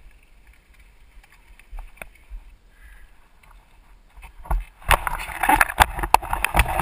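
Faint scattered clicks, then from about five seconds in a loud run of rattling and knocks.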